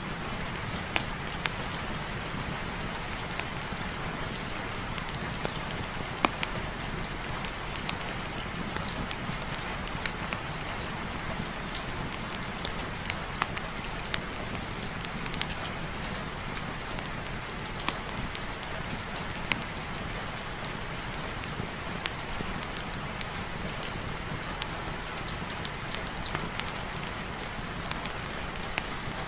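Steady heavy rain with a fireplace fire crackling, sharp pops scattered irregularly over the even hiss of the rain.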